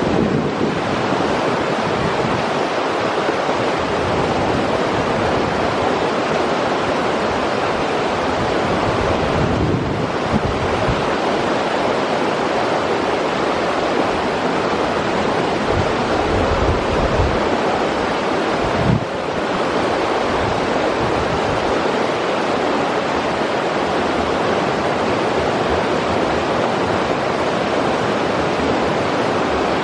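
River water rushing steadily over rocks, a constant full hiss of flowing water. A few low rumbles of wind on the microphone come and go about halfway through.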